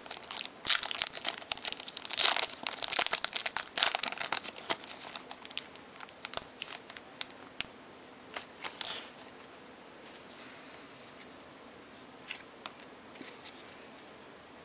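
Foil wrapper of a trading card pack being torn open and crinkled: dense crackling for about five seconds, a short crinkle again around the middle, then quiet.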